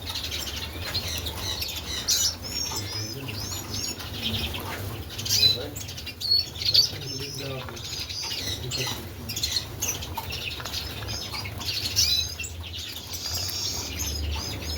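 Many small caged finches chirping and twittering together, with short warbled song phrases and the flutter of wings in the cages, over a low steady hum.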